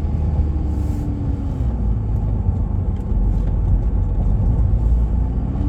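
Car interior road noise while driving: a steady low rumble of engine and tyres, with a faint engine tone that drops about a second in and climbs again near the end.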